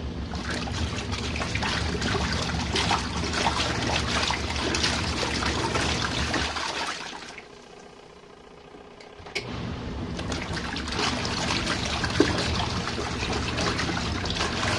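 Compact RV washing machine agitating its load: a motor hum with water sloshing and splashing in the tub. The agitator runs for about seven seconds, stops for about two seconds, then starts again.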